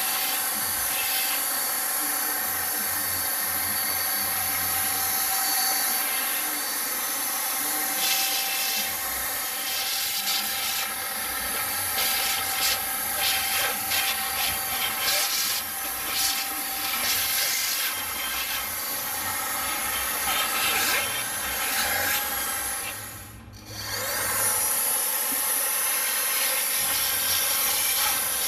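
BuTure VC70 cordless stick vacuum running with a steady high motor whine, its brush roll rubbing and scraping as it is pushed over the floor. About 23 seconds in the motor cuts out briefly, then spins back up with a rising whine.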